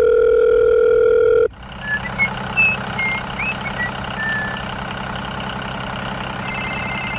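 A loud, steady horn-like tone for about a second and a half, then a tractor engine running steadily with faint high chirps over it. A high electronic beep-like tone comes in near the end.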